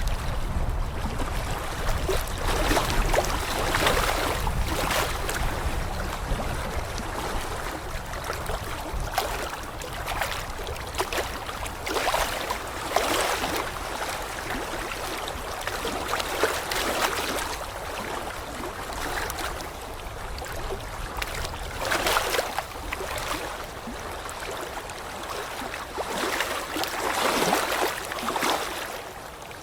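Moving water washing and lapping, rising in uneven swells every few seconds.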